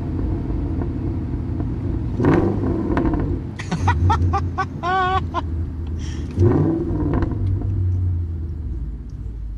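2005 Ford BA XR8 ute's Boss 260 V8 running through a straight-piped exhaust, heard from a microphone at the exhaust: a steady low rumble that climbs in revs twice, about two and six seconds in. Midway, a short warbling high tone sounds over it.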